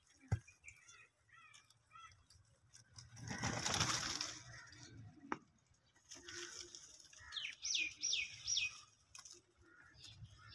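Birds chirping, with a few faint wavering chirps early and three quick, high chirps about three-quarters of the way through. A loud rustling flurry about three seconds in, and a couple of sharp clicks.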